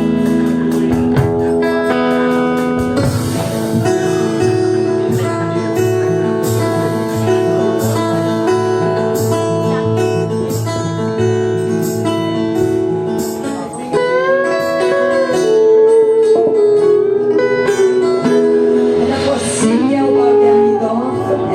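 Live band music led by guitar: steady plucked and strummed notes over held tones, with a few notes sliding up and down in pitch about two-thirds of the way in.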